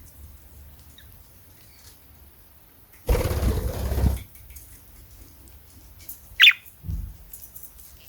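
A pet bird's wings flapping in a loud rush of about a second, a little after the start. Later, one short sharp chirp falling in pitch, followed by a soft thump.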